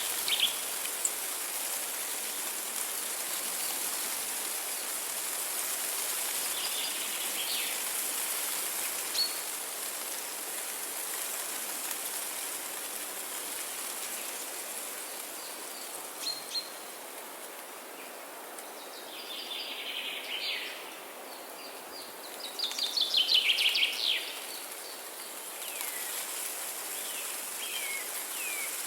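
Birds chirping over a steady hiss of water. Short calls come now and then, with a longer chirping phrase and then a loud rapid trill about three-quarters of the way through.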